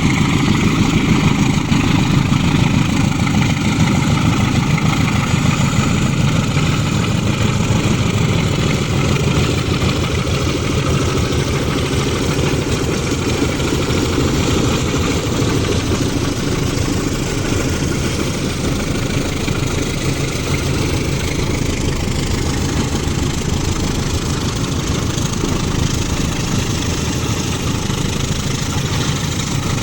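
Loaded ore freight train with diesel locomotives: a steady, dense engine rumble that eases off slowly.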